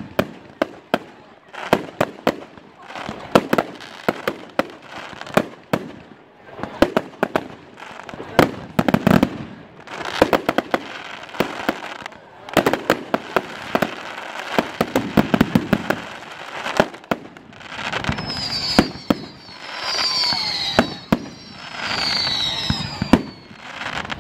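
Fireworks display: a rapid run of sharp bangs and crackling bursts from aerial fireworks, with several short falling whistles in the last third.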